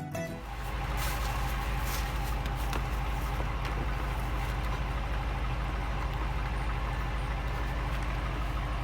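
A vehicle engine idling: a steady low hum that holds even throughout.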